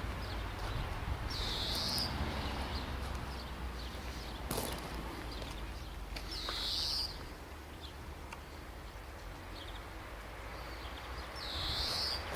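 A bird calling three times, about five seconds apart, each call short and high, over a steady low rumble, with a single sharp click partway through.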